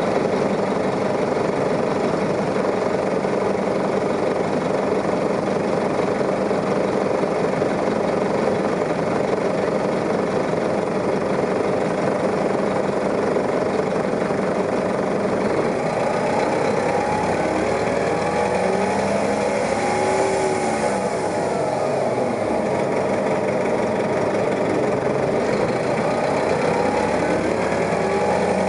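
New Flyer articulated city bus engine running with a steady drone; a little over halfway through, its pitch starts rising and falling.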